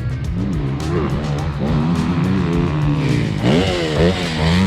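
Motocross dirt bike engines revving, their pitch swooping up and down as riders work the throttle, with sharp rises and falls near the end. Background music with a steady beat plays alongside.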